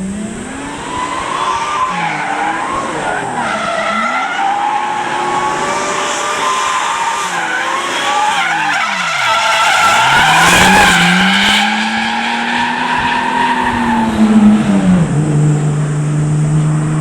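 Nissan RB25DET Neo6 turbocharged straight-six engine under load while driving. Its note climbs and drops several times as it revs and shifts, makes one long pull in the middle, then settles to a steady lower note near the end.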